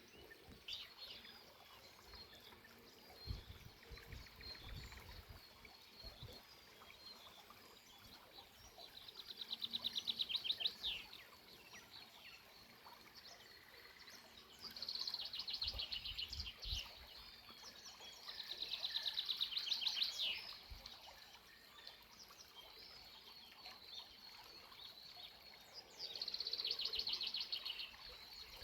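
A songbird repeats a rapid high trill four times, each trill about two seconds long, over a faint murmur of spring water.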